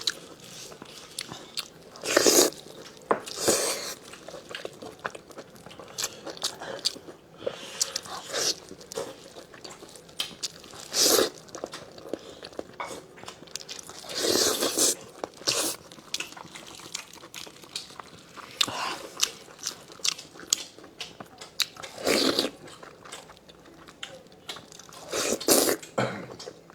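Close-miked eating of braised spicy lamb chops: chewing and biting, with many small wet mouth clicks and a louder bite every few seconds.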